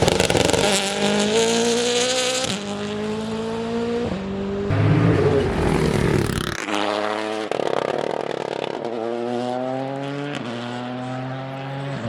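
Rally car engine accelerating hard through the gears: the engine note climbs, drops sharply at each upshift and climbs again, several times over.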